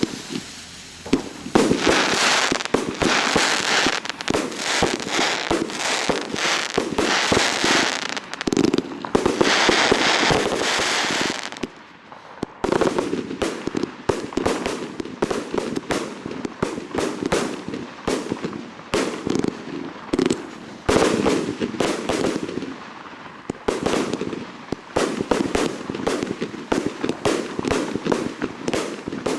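Fireworks display: a rapid, continuous barrage of bangs from bursting shells, thick with crackling and hissing for the first dozen seconds, easing briefly, then resuming as a fast run of bangs.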